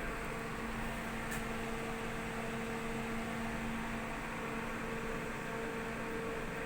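Steady electrical or machinery hum over a constant hiss, with one faint click about a second and a half in.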